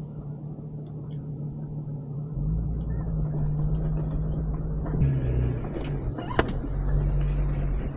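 Jeep engine running, heard from inside the cab, settling into a louder, deeper rumble about two seconds in as the Jeep rolls down into a shallow river crossing. A couple of short knocks come near the end.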